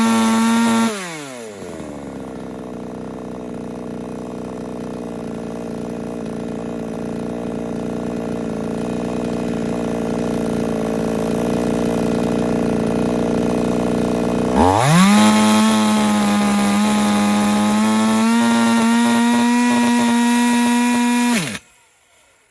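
Two-stroke chainsaw at full throttle drops back to a low, uneven idle for about thirteen seconds. It then revs to full throttle again and cuts out suddenly near the end: the engine blowing up and locking, which the owner puts down to the piston giving way or a circlip coming out.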